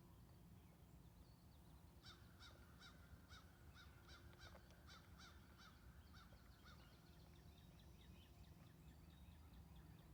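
Faint bird calls: a run of evenly repeated notes, about three a second, starting about two seconds in. These give way to a quicker, fainter series of short notes that fades out.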